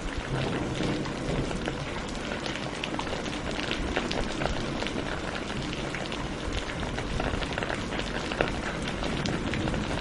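Steady rain falling, with many separate drops striking a surface.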